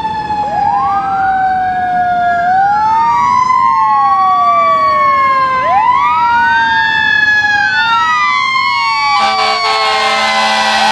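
Two or more emergency-vehicle wail sirens rising and falling out of step with each other, with a loud, steady horn blast starting near the end.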